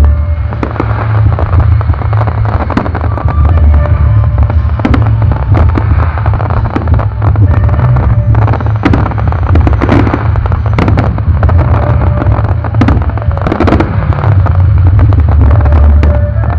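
Fireworks going off in quick succession: many sharp bangs and crackles, irregularly spaced, over a steady low rumble.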